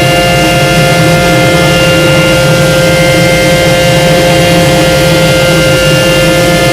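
Ryko Soft Gloss automatic car wash machinery running loudly and steadily, a constant motor whine over a rushing noise.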